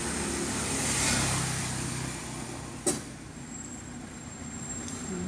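A motor vehicle's engine rumble that fades away over the first two seconds, then a single sharp click. After that a thin, steady, high-pitched tone holds over a quieter background.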